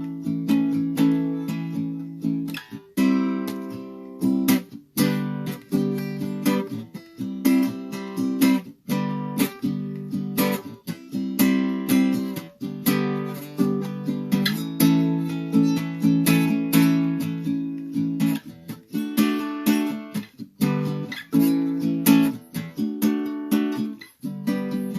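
Acoustic guitar played solo, strummed chords with plucked notes, changing chords every second or so in a loose riff.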